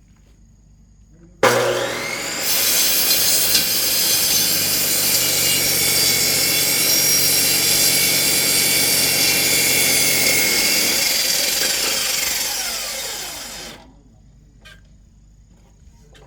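Electric high-speed cut-off saw with a saw blade starting abruptly about a second and a half in and cutting into a thick log. The log is too thick to cut in one pass, so it has to be turned and cut from several sides. Near the end the motor winds down, falling in pitch, and stops.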